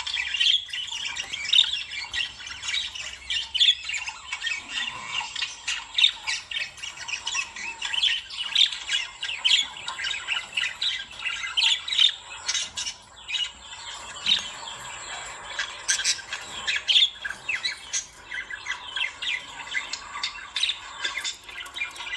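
Lovebirds squawking and chattering, a dense, unbroken run of short shrill calls with no pauses.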